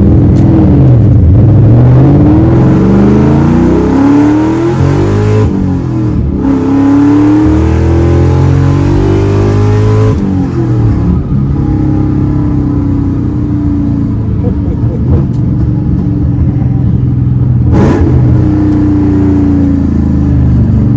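Supercharged 2001 Ford SVT Cobra 4.6-litre V8, straight-piped through long-tube headers, an X-pipe and a muffler delete, accelerating hard. The engine revs rise and fall repeatedly through the gears, with breaks in the pull about five and a half and ten seconds in, then it runs at steadier revs.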